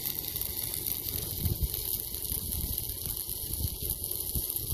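Stick welding arc running a bead on steel: a steady crackling hiss with irregular pops.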